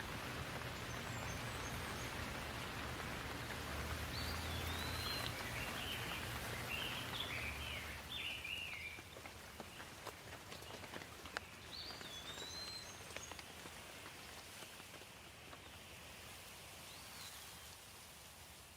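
Steady hiss of light rain with scattered drip clicks, and a songbird chirping in short rising-and-falling calls, most between about four and nine seconds in and again around twelve seconds.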